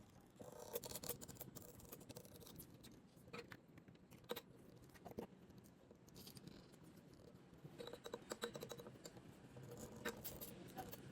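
Faint scraping and light clicking of utensils in a small bowl of liquid baby-bird hand-feeding formula, in two busier stretches, near the start and again later on.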